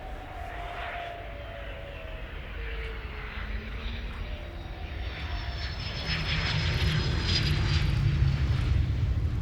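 Hongdu L-15 jet trainers' jet engines flying past, growing louder in the last few seconds with a slowly falling whine.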